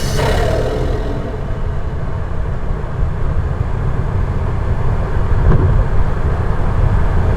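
Toyota Supra with an Armaspeed intake running on the road, its engine a steady low rumble. A high turbo flutter whoosh fades away in the first half second.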